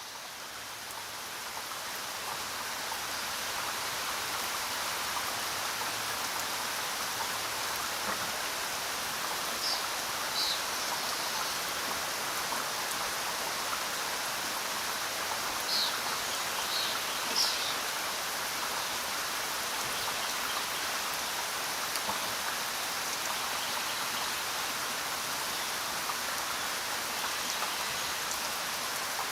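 Steady rain falling, fading in over the first few seconds, with a few brief high chirps around ten and sixteen seconds in.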